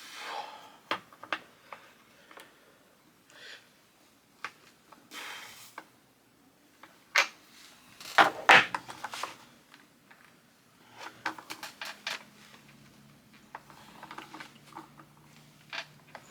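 Skateboard truck hardware and a metal skate tool being handled: scattered clicks, taps and knocks with a few short scraping swishes, the loudest a cluster about halfway through. A faint steady low hum comes in during the last few seconds.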